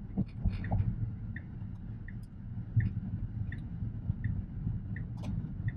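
Tesla Model X Plaid's turn-signal indicator ticking evenly, about three ticks every two seconds, over a low cabin road rumble.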